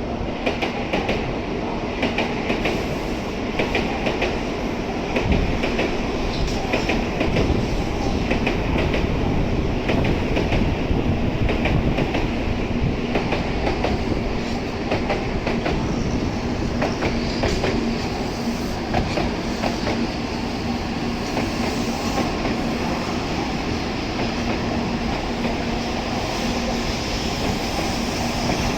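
Tokaido Shinkansen train moving slowly along the platform, its wheels clacking over the rail joints and points in an uneven rhythm. From about halfway a steady low hum comes in under the rumble.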